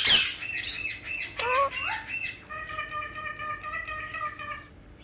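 Alexandrine parakeet calling: a harsh squawk at the start and a short rising call about one and a half seconds in, then one long, steady pitched note held for about two seconds.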